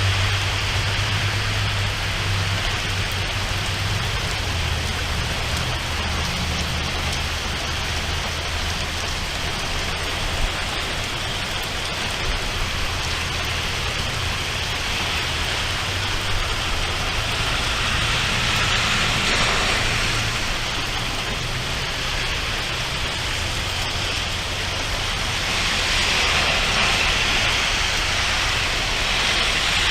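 Steady rain falling, swelling heavier twice in the second half. A low rumble sounds in the first few seconds and fades.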